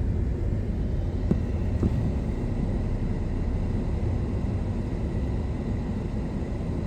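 Steady low rumble, with two faint clicks about a second and a half in.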